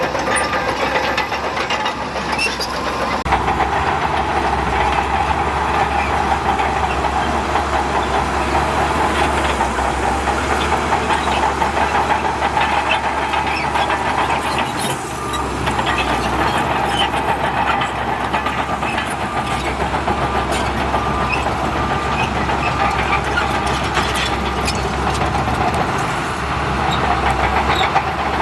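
Heavy diesel earthmoving machine working, its engine running steadily under a dense, continuous metallic clatter, easing off briefly about halfway through.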